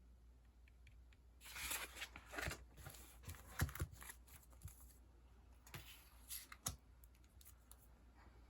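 Sticker sheets and their packaging being handled: a few seconds of rustling and crinkling, then a few short, sharp taps and clicks.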